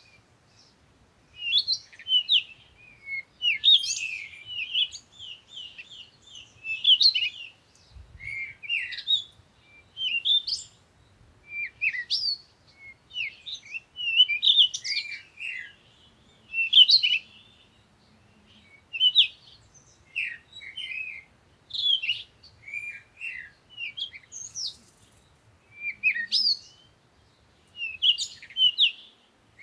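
Birdsong: short phrases of quick, high chirps and trills, one bird phrase after another every second or two.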